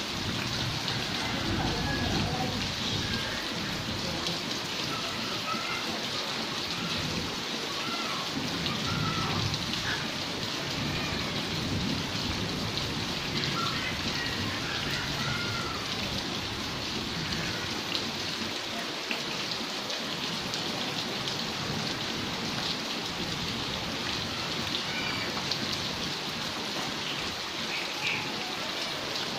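Heavy rain falling steadily, an even rushing patter. A low rumble of distant thunder sounds under it through roughly the first ten seconds.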